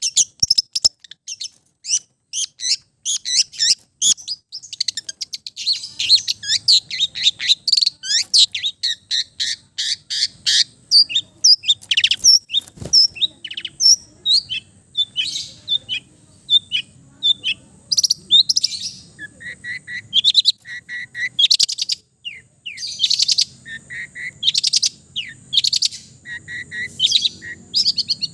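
Long-tailed shrike (cendet) singing a fast, varied stream of chirps, trills and short whistles, full of mimicked calls of other birds.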